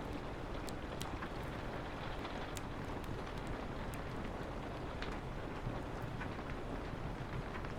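Steady rain on a window with a low, even rumble, over a wood fire crackling with scattered sharp pops.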